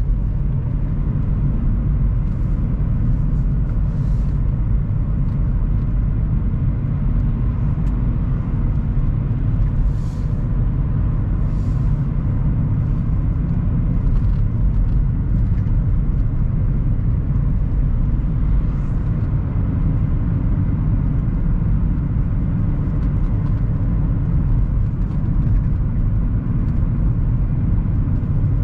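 Car on the move: a steady low rumble of engine and road noise, with a few faint ticks now and then.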